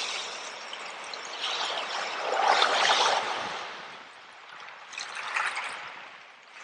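Running water, splashing and trickling, with one louder surge about two seconds in and a smaller one near five seconds.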